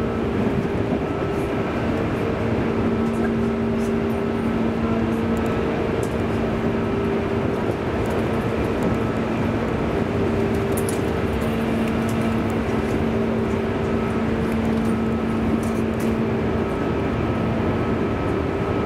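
Inside the cabin of a JR East 205 series electric commuter train running at steady speed: constant rumble of wheels on rails, with a steady low hum that drops out and returns several times.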